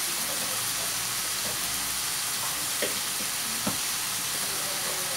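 Chopped onion and chicken pieces frying in a pan, a steady sizzling hiss with two small pops a little under a second apart near the middle.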